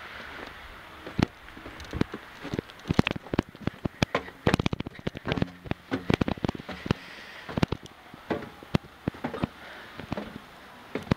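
Irregular crunches and sharp clicks of footsteps in snow, thickest a few seconds in, over a faint steady hiss.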